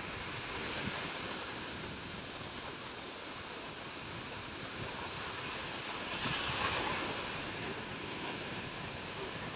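Sea waves washing onto a beach, a steady wash with one louder surge about six seconds in, with some wind buffeting the microphone.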